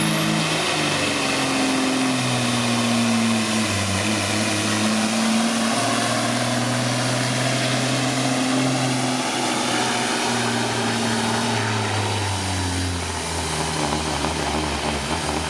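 Pulling semi truck's diesel engine at full throttle, dragging the weight sled under heavy load. A high turbo whistle climbs in the first second and then holds over the steady engine note.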